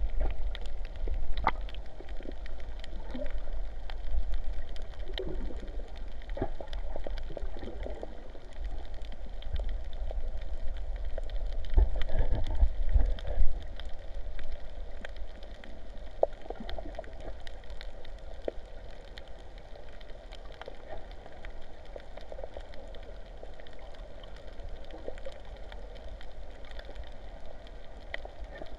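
Sea water gurgling and sloshing close to the microphone, with a low rumble that swells about twelve seconds in and scattered sharp ticks.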